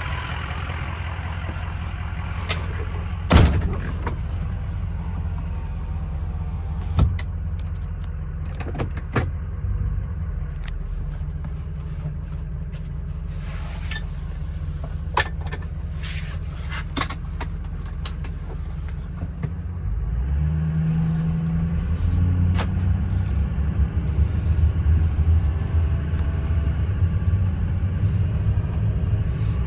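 Ford 6.0 Power Stroke V8 turbo-diesel in a 2003 F-250 running with a steady low rumble, with two sharp knocks a few seconds in. About twenty seconds in, the engine note rises and grows louder as the truck pulls away on a test drive.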